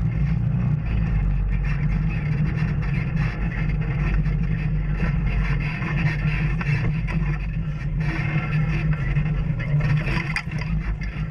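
Off-road vehicle engine running steadily while riding a trail, with rough tyre and terrain noise and small rises and falls in engine speed.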